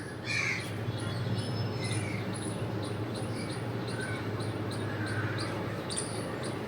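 Sponge dauber tapping gesso onto a wooden MDF base: soft, repeated dabs about two a second, over a low steady hum.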